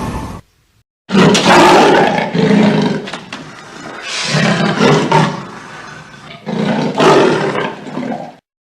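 A large animal roaring: three long, loud, low roars, starting about a second in, each fading between bouts.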